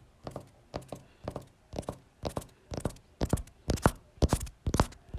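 Horse's hooves clip-clopping on hard ground, a double beat about twice a second, growing louder as the horse nears.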